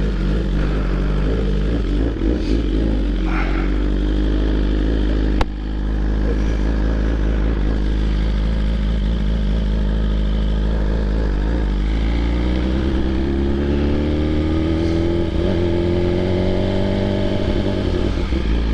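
BMW S1000RR inline-four sport bike with an aftermarket SC Projects exhaust running under way, holding a steady engine note, then rising steadily in pitch as it accelerates over the last several seconds. A single sharp click sounds about five seconds in.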